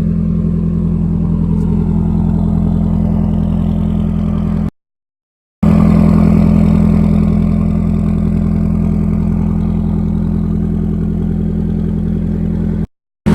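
Nissan 240SX four-cylinder engine running through a muffler-delete exhaust with blast pipes, loud and held at a steady engine speed. The sound cuts out to silence twice, briefly.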